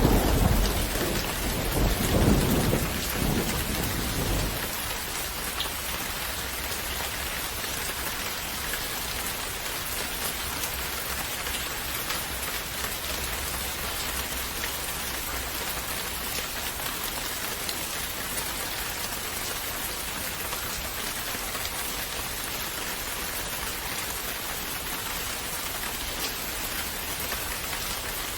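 Steady rain falling on a surface, with a roll of thunder that rumbles away over the first few seconds.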